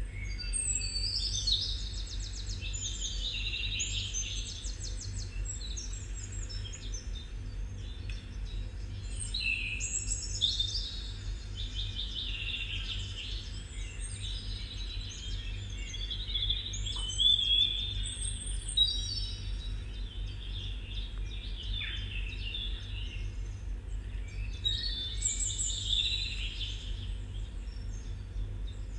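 Birds singing: bursts of high chirps and trills in song phrases that return about every eight seconds, over a steady low hum.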